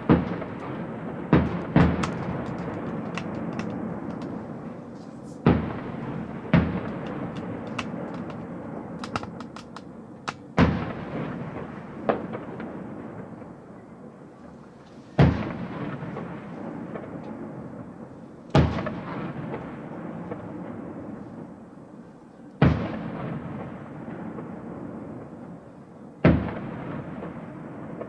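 Fireworks shells bursting overhead: about ten sharp bangs a few seconds apart, each trailing off in a long rumbling echo, with a spell of fine crackling around the middle.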